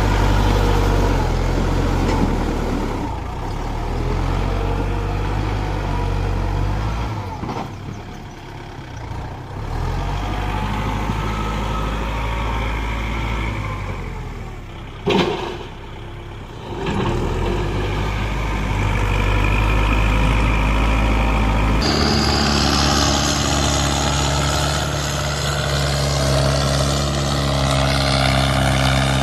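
Tractor engines running and labouring, their pitch shifting as the load changes, with one sharp knock about 15 seconds in. About 22 seconds in the sound switches abruptly to a different, steadier engine note.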